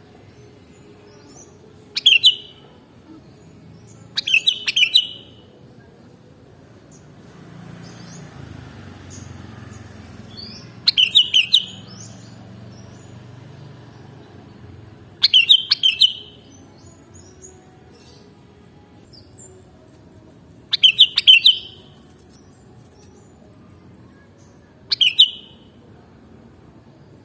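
Sooty-headed bulbul (kutilang) giving short, loud bursts of chirpy calls, six phrases a few seconds apart.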